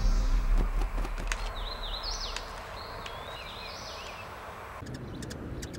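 A songbird chirping in a quick run of short, high, warbling notes over a steady outdoor hiss. The notes come between about one and a half seconds in and just before five seconds. Background music fades out in the first second, and the hiss drops away abruptly near the end.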